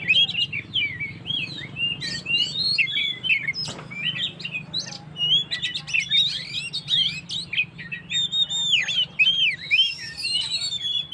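Oriental magpie-robin (kacer) singing in full 'gacor' song: a fast, unbroken string of varied whistles, slurs and chirps, with a steady faint low hum underneath.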